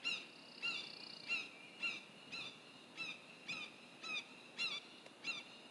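A hawk calling over and over in a steady series, about two short, down-slurred calls a second.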